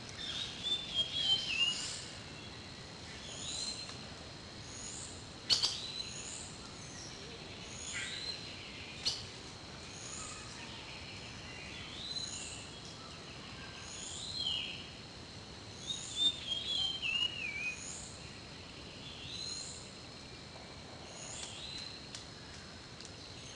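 Birds chirping: short high chirps repeated about once a second, with a few descending trilled phrases. Two sharp clicks stand out, about five and a half and nine seconds in.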